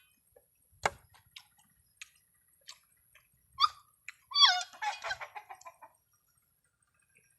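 A bird calling: a short call, then a run of quick squawking calls about four seconds in. Scattered sharp clicks of chewing on crunchy shell around it.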